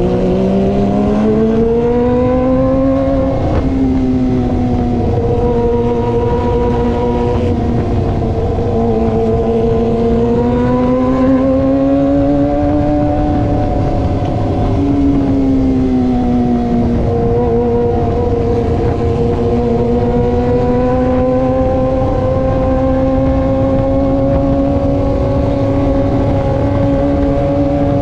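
Kawasaki ZX25R's 250 cc inline-four with an aftermarket racing exhaust, ridden at speed. The engine note climbs over the first few seconds, drops at a gear change, then rises and falls with the throttle, with another drop about halfway through, and holds steady near the end. Wind noise runs underneath.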